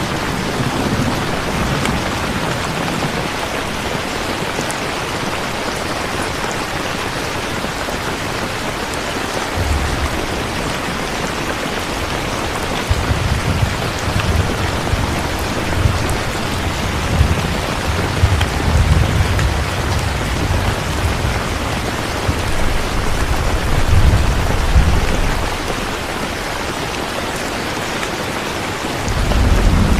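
Steady rain with rolling thunder rumbling low through the middle and swelling again near the end.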